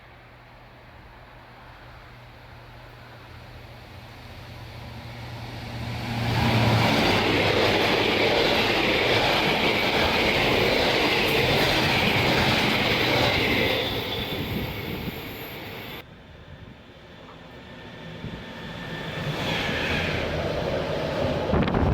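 A freight train passing through the station at speed. A low hum swells as it approaches, then a loud rush of wheels on rails lasts about eight seconds and fades. The sound cuts off abruptly, and another train's noise builds again near the end.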